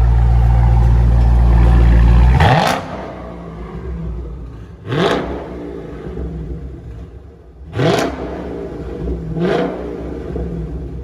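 Dodge Challenger 1320's 392 HEMI V8, mufflers deleted with the resonators left on, running at a loud fast idle right after start-up. The idle drops off about two and a half seconds in. Then comes a series of short throttle blips, each a quick rising rev, every two to three seconds.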